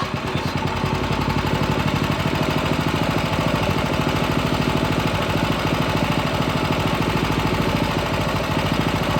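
Predator 212 single-cylinder four-stroke engine on a mini bike running steadily at an even idle, hot, after a slow pull on the recoil starter.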